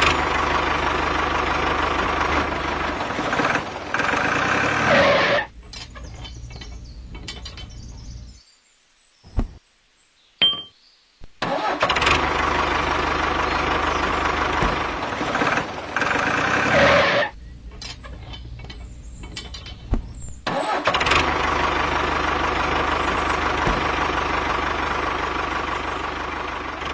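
A small machine's motor running in three stretches of about five to six seconds each, steady while it runs, with quieter gaps and a few clicks between the runs.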